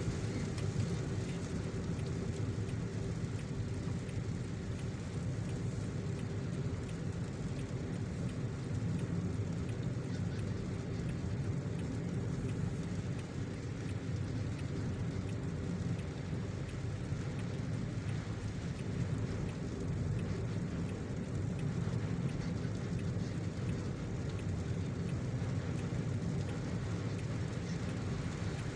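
A car driving in rain: a steady low rumble of road and engine noise with an even hiss of rain over it.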